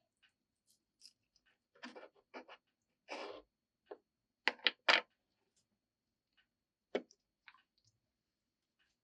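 Scattered small clicks and short scrapes from objects being handled, with a quick run of three sharper clicks about halfway through and one more a couple of seconds later.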